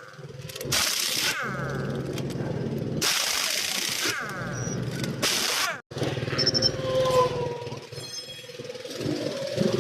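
A power tool used in truck tyre repair running in three bursts of about one to three seconds each, stopping abruptly after each one.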